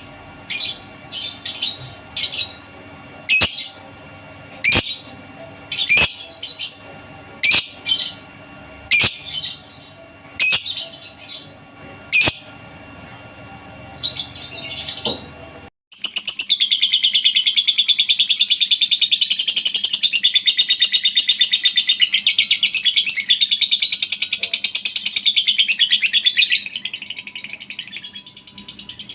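Lovebird calling: short sharp chirps about once a second, then, after a brief cut about halfway through, a long unbroken rapid chatter, the 'ngekek' that lovebird keepers train their birds to give, lasting about thirteen seconds.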